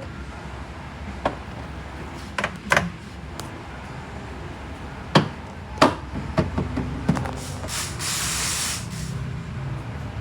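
Scattered sharp knocks and clicks over a low steady hum, with a burst of hissing spray lasting about a second near the end.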